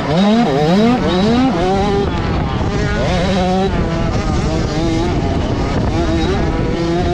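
Motocross bike engines running hard, the pitch rising and dropping again and again over the first two seconds as the throttle is worked, then holding steadier.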